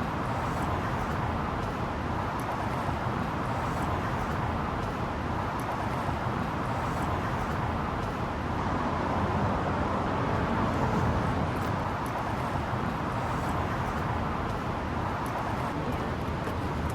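Steady rushing of Mosquito Creek's flowing water, with faint footsteps on the trail.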